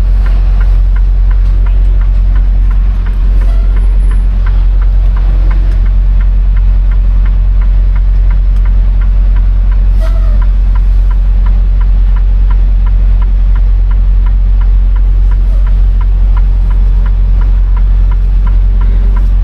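Semi truck's diesel engine running steadily at low speed during slow backing manoeuvres, a deep constant hum heard from inside the cab, with a regular light ticking about three times a second and one sharper click about halfway through.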